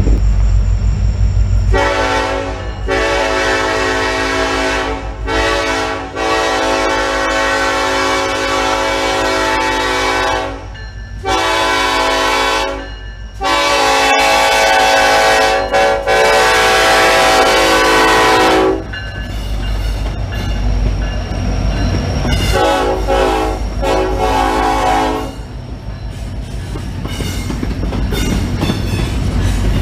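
Diesel locomotive's air horn sounding a series of blasts, several short and several long, lasting over most of the first twenty seconds, then one weaker blast later, over the steady low rumble of the passing train.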